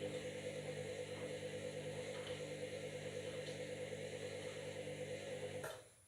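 Washing machine running, a steady hum made of several tones with a fast ripple in loudness, which stops suddenly near the end with a click.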